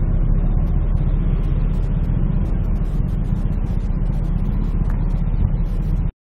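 Steady low rumble of a moving car, engine and road noise together, which cuts off abruptly about six seconds in.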